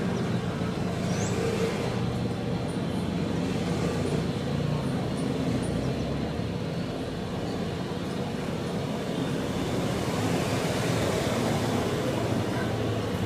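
Steady drone of a single-engine propeller plane, the Piper PA-28-181, flying by, heard under a constant haze of traffic-like noise.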